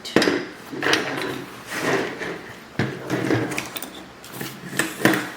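Handling noises: a series of irregular knocks, scrapes and rubs as objects are moved about by hand.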